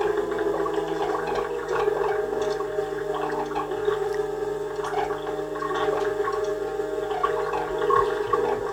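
Electronic noise music from analogue synthesizers and noise boxes. Several layered steady drones run under an irregular bubbling, crackling texture, and one tone slides down in pitch in the first half second.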